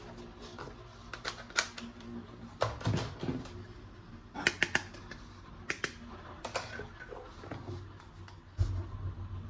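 Irregular sharp clicks and taps of hard plastic being handled, as toy gun parts are unpacked and fitted together.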